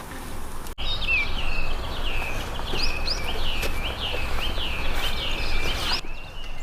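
A songbird calling in a quick run of repeated, downward-sliding chirps, about two or three notes a second, starting just under a second in and stopping abruptly near the end. Steady low outdoor noise runs beneath it.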